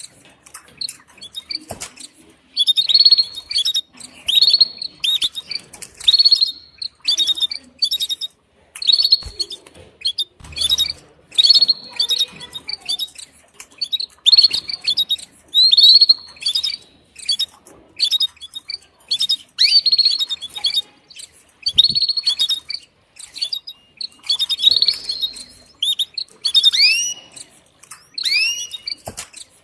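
Female domestic canary giving its mating call: short high chirped calls repeated about once a second, with a few downward-sweeping notes near the end.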